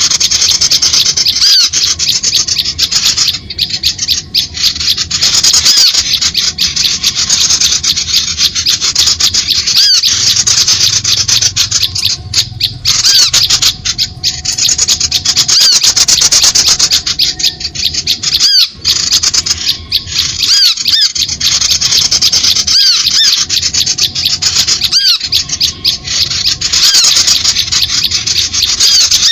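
Recorded bird-lure call for trapping: dense, continuous high-pitched chattering and squeaking of small birds, many rapid short calls packed together with only brief breaks.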